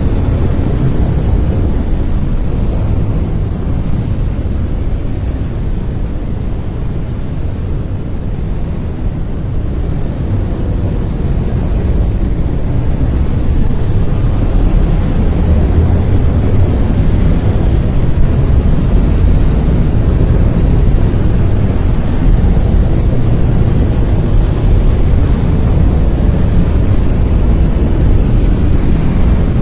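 Brown noise: a steady, deep rumbling hiss, heaviest in the low end and thinning toward the highs.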